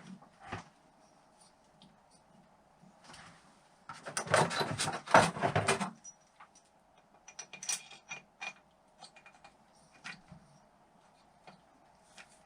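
Metal engine parts and hand tools clicking and clinking on a workbench during engine assembly. About four seconds in there is a dense two-second stretch of rapid rattling clicks, with scattered single clicks and knocks either side.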